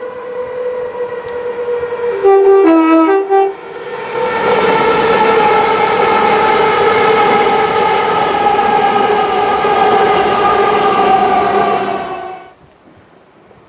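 Express train on the East Coast Main Line passing at speed with its two-tone horn sounded: a quick run of short high and low notes about two seconds in, then a loud held pitched tone over the rush of the passing train. The sound cuts off abruptly near the end.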